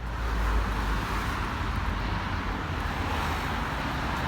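Steady road-traffic noise: a continuous low rumble with a hiss above it.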